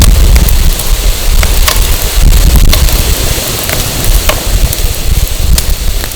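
Firewood burning, crackling with irregular sharp pops and snaps, under loud gusting wind buffeting the microphone.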